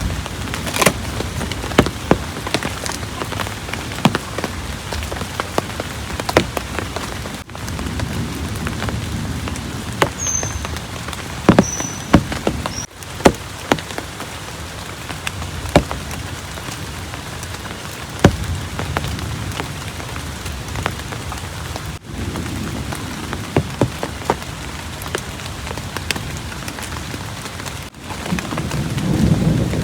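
Heavy rain falling steadily, with frequent sharp drops striking close by. A low rumble of thunder begins to build right at the end.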